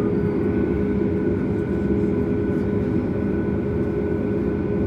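Steady cabin drone inside a Boeing 737 MAX on the ground: a low rumble with a few steady hum tones over it.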